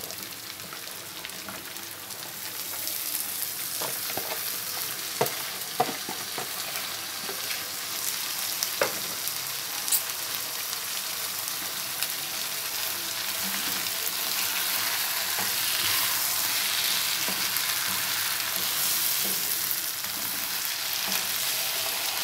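Cauliflower florets and beef frying in masala in a frying pan over a low flame, a steady sizzle that grows louder a few seconds in. A wooden spatula stirs the pieces, with scattered sharp knocks in the first ten seconds or so.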